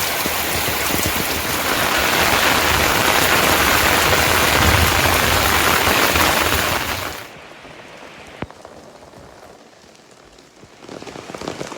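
Heavy rain falling, a steady dense hiss that suddenly drops to a much quieter patter about seven seconds in, with one sharp tick shortly after and the rain growing louder again near the end.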